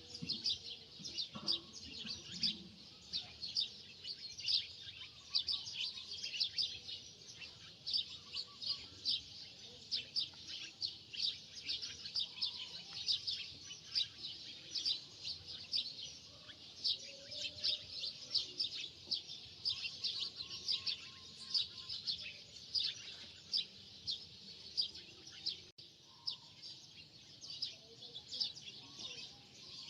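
Small birds chirping, a dense run of quick high chirps several times a second that goes on without a break.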